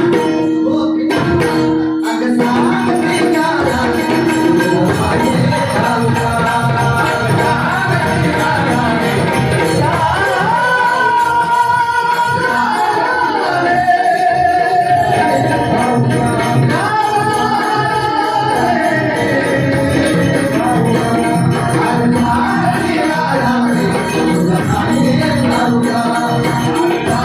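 Marathi gaulan, a devotional song to Krishna: a sung melody over jingling hand percussion. The melodic line is clearest through the middle of the stretch.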